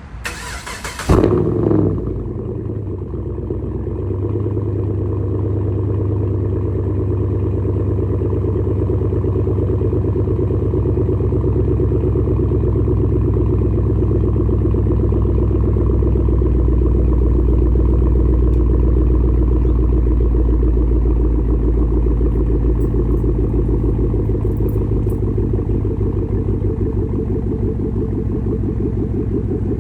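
2011 Chevrolet Camaro SS 6.2-litre LS3 V8 with a 3-inch straight-pipe cat-back exhaust, cold-started: a short burst as it fires about a second in, then a loud, steady, deep idle.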